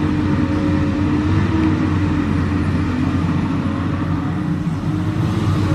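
Komatsu PC200 excavator's diesel engine running steadily, easing off slightly a little before the end and picking up again.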